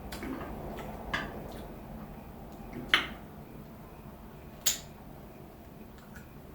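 Close-miked chewing of crispy food, with three sharp crunches spread through it.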